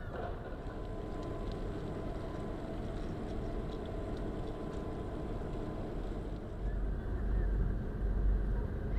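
Steady low rumble of a large ship's engines, swelling about seven seconds in, with a thin steady tone above it for most of the time.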